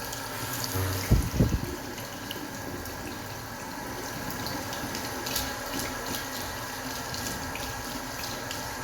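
Water running steadily from a tap into a sink, with a few dull low thumps about a second in.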